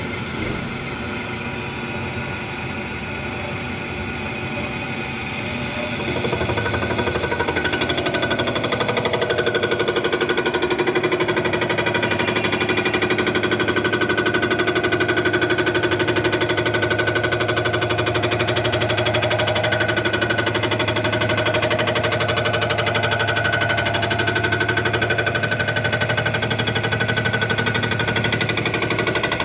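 A machine-shop machine running with a rapid, steady chatter, louder from about six seconds in.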